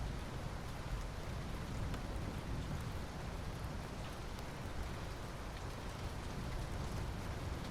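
Steady rainfall with scattered drops ticking on a surface.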